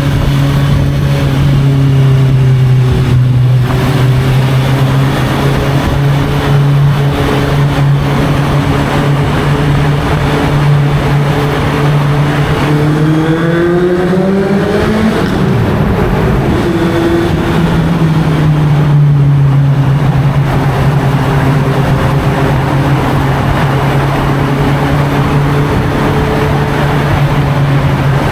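Honda CB650F's inline-four engine running through an Arrow aftermarket exhaust while riding. It holds a steady cruising note, revs up about halfway through, drops off sharply, then settles back to a steady note.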